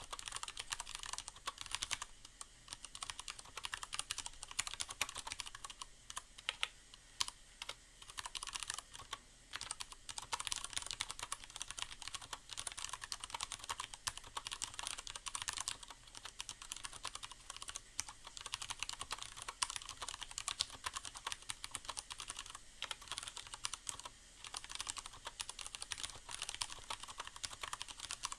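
Typing on a Leopold FC750R mechanical keyboard with Cherry MX Brown switches: a rapid, uneven run of key clicks and clacks, with a few short pauses, over a steady hiss of rain sounds.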